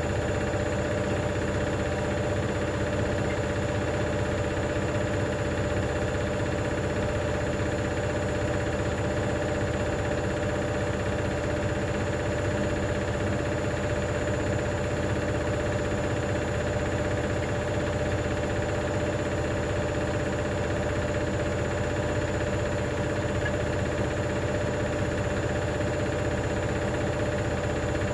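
Hoover DynamicNext washing machine on its spin cycle, the drum turning at a steady speed with a continuous rattle. The rattle comes from a £1 coin trapped under the heating element.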